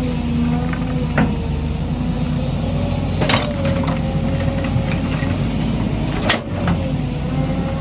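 Excavator engine running steadily, with a few sharp knocks at intervals.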